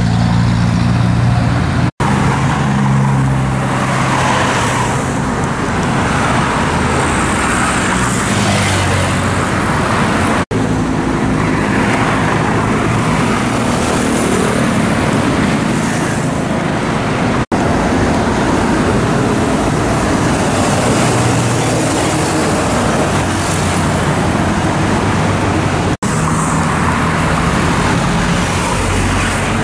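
Heavy road traffic: a continuous stream of cars, trucks and motorcycles passing, with engine hum and tyre noise that swell and fade as vehicles go by. The sound cuts out for an instant four times.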